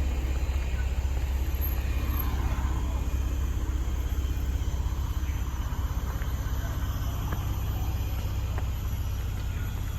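Steady low outdoor rumble, with faint voices in the first few seconds.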